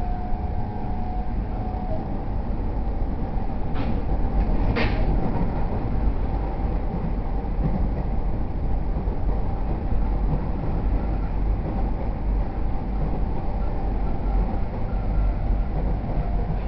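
JR E231 series 0 electric commuter train heard from inside the car while running between stations: a steady rumble of wheels on rail with a faint steady tone above it. Two short sharp clicks come about a second apart, about four seconds in.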